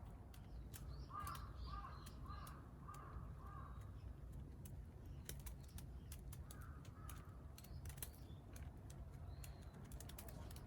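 A crow cawing five times in quick succession, then two or three fainter caws a few seconds later, over the scattered crackle and pops of a wood campfire burning in a mesh fire stand.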